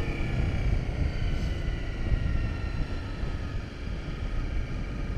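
Honda CRF250 Rally's single-cylinder engine running under way, with heavy wind rumble on the microphone; the engine note eases slowly down as the bike slows.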